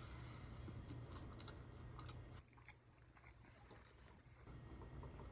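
Faint close-up chewing of a person eating, with small wet clicks and crunches of the mouth. Under it a low hum stops about halfway through and comes back near the end.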